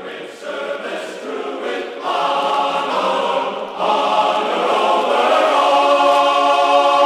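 Choral music, voices holding sustained chords, swelling louder about two seconds in and again about four seconds in.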